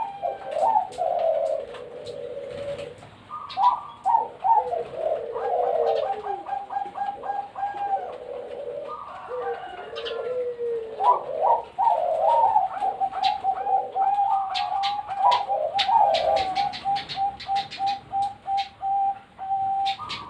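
Perkutut (zebra doves) cooing, several birds overlapping in repeated sliding coo phrases. Near the end one bird holds a long, fast run of even staccato notes, with scattered sharp clicks throughout.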